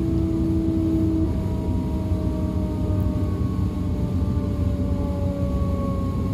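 Aboard a DB Class 425 electric multiple unit, the traction drive whines over the steady rumble of the running train: several tones glide slowly down in pitch, and a lower tone cuts off about a second in.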